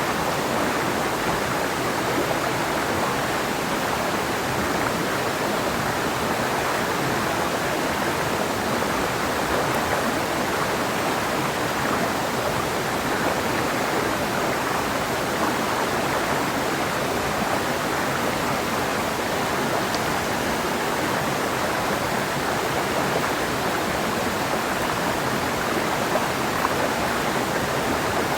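Clear mountain river flowing over rocks: a steady, even rush of water with no breaks.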